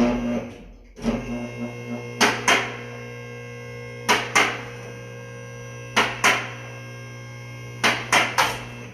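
Electric hydraulic pump motor of a two-post car lift running with a steady hum. Over it, pairs of sharp clicks come about every two seconds, as the lift's safety locks on both posts ratchet past each stop while the car goes up. A loud knock sounds right at the start.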